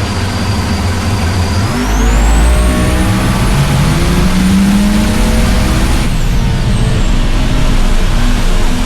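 High-powered drag-racing engine running loud, then revving up about two seconds in, its pitch and a high whine climbing and holding, then easing off about six seconds in.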